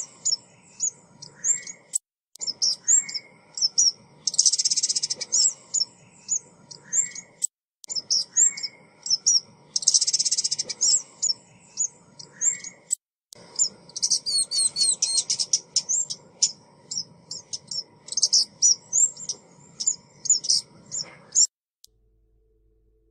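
Recorded calls of a female ốc mít bird used as a trapping lure: quick high chirps and short whistled notes in repeated bouts with brief breaks between them. The calling cuts off suddenly about 21 seconds in.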